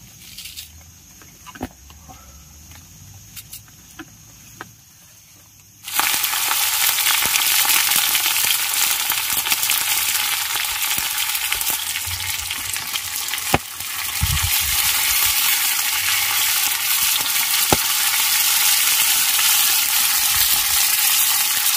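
A few faint knocks, then about six seconds in a loud sizzle starts suddenly as food goes into hot oil, and it keeps frying steadily.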